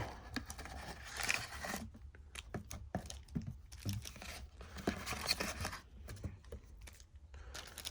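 Cardboard and plastic wrapping rustling and tearing as a trading-card box is opened by hand. Irregular crinkles with small clicks and scrapes.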